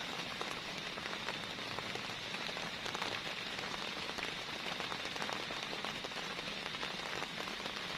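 Heavy rain falling steadily, a dense spray of individual drop impacts over an even hiss.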